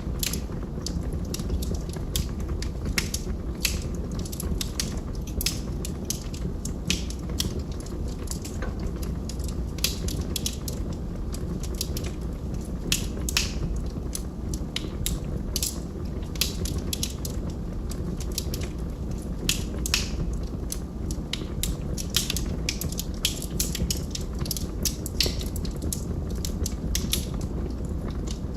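Log fire burning, with a steady low rumble of flames and frequent irregular sharp crackles and pops from the burning wood.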